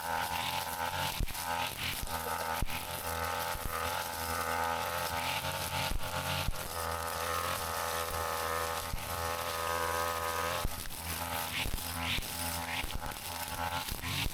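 Brush cutter running at high speed, its small engine buzzing steadily with a slightly wavering pitch, with scattered sharp ticks.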